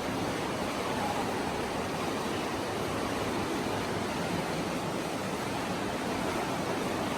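Steady, even rushing noise that holds without a break.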